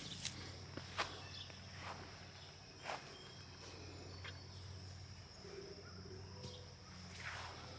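Faint outdoor ambience with a steady, high-pitched insect drone, broken by a few light clicks and rustles.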